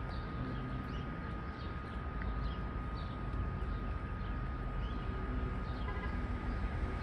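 A songbird calling with short falling chirps, about two a second, over a steady low rumble, with a faint steady tone throughout.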